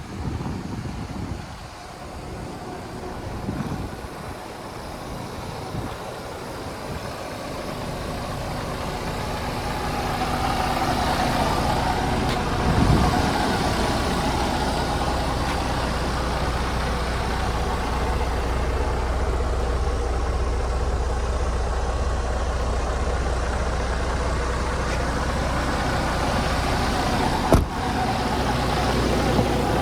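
Diesel engine of a 2020 Freightliner Cascadia truck running at a steady idle, growing louder over the first ten seconds or so and then holding even, with a single sharp click near the end.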